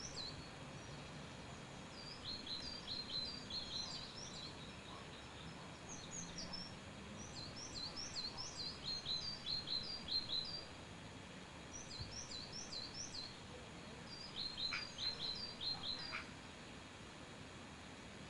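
Songbirds singing: phrases of quick, high, repeated chirps come four times, each lasting a few seconds, over a steady outdoor background hiss.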